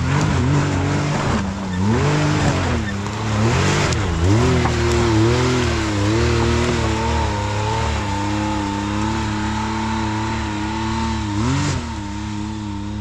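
Side-by-side UTV engine revving up and down in repeated bursts of throttle as it climbs a rock trail, with tyre and rock noise underneath. After about seven seconds the revs settle into a steadier drone.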